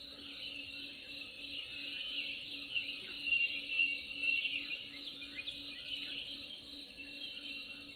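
Nature ambience of birds chirping and calling over a dense chorus of insects, busiest in the middle, with a low steady pulsing tone underneath.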